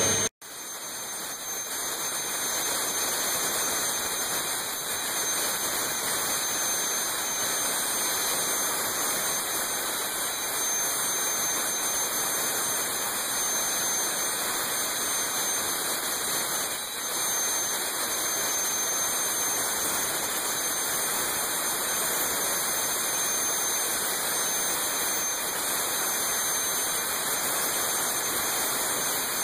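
Garrett F109 turbofan running steadily at low power, a loud, even hissing rush with no rhythm or pitch changes. The sound drops out for an instant just after the start, then builds back to a steady level.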